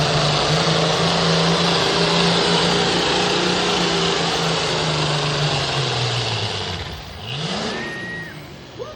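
Pro Farm pulling tractor's diesel engine running hard and steady at high revs, then throttling down with falling pitch about six seconds in as the pull ends. A brief rise in revs follows near the end.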